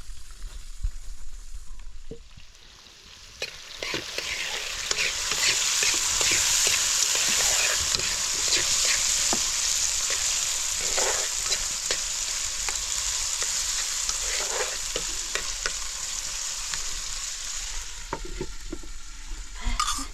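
A dense crackling sizzle that swells suddenly about three and a half seconds in, holds loud and steady, and eases off near the end.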